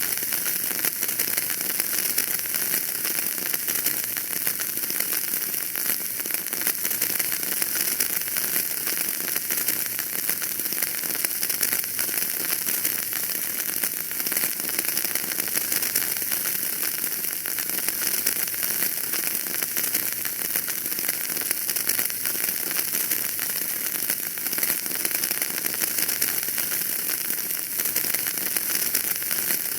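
Wood fire burning in a fireplace, with dense, fine crackling over a steady hiss.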